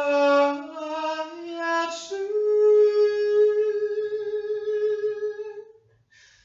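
A single voice singing wordless notes, stepping up in pitch and then holding one long high note that fades out about six seconds in.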